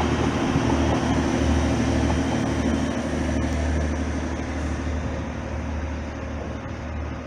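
Two coupled class 185 diesel multiple units pulling out, their diesel engines giving a steady low drone that slowly fades as the train moves away.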